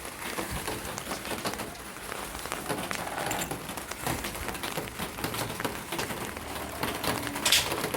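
Steady rain falling: a continuous hiss made up of many separate drop impacts, with one sharper tap near the end.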